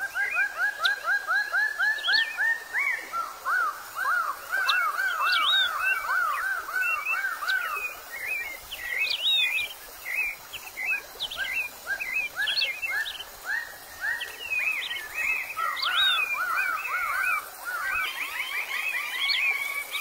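Rainforest birds calling: runs of short arched whistled notes, three or four a second, with scattered higher chirps over them.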